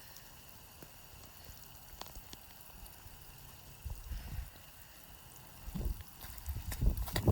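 Rain falling, with scattered raindrops ticking on the wet phone. Soft low thuds come in about four seconds in and grow heavier near the end.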